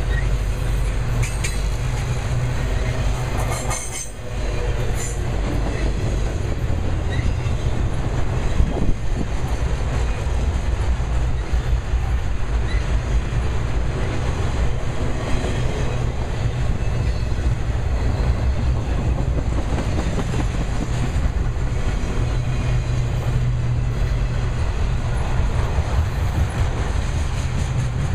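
Intermodal freight cars carrying semi-trailers rolling past: a steady rumble of steel wheels on rail, with a few sharp clanks, two of them about five seconds apart near the start.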